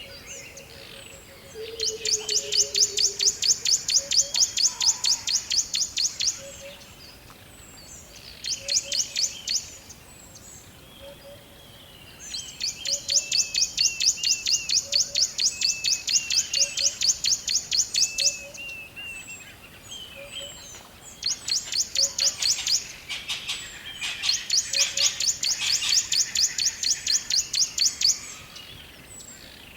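Forest ambience of birds chirping and calling. A fast, high pulsing trill comes in repeated bursts of several seconds each, with short rising chirps in between and a low note repeating about once a second.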